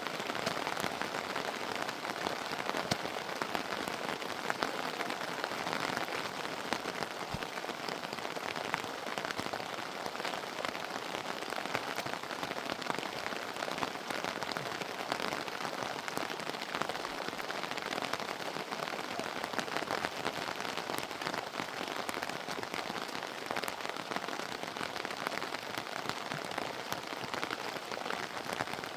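Steady heavy rain: an even hiss of falling rain with many small drop ticks throughout.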